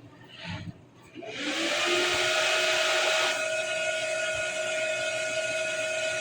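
Desktop computer's cooling fans spinning up about a second in: a steady whirr with a hum whose pitch rises briefly and then holds, dropping a little in level a couple of seconds later.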